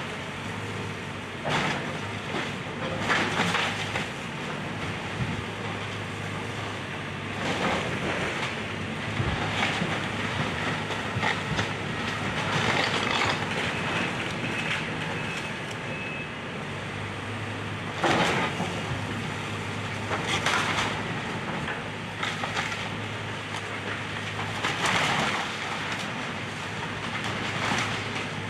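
Excavator engine running steadily while the machine crunches and breaks up house wreckage, with irregular louder cracks and crashes of splintering debris every few seconds.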